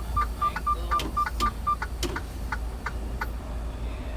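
Rapid electronic beeping in a truck cab, short beeps on one steady tone about four a second, stopping about two seconds in, followed by a few sharp clicks. A steady low rumble of the idling truck engine runs underneath.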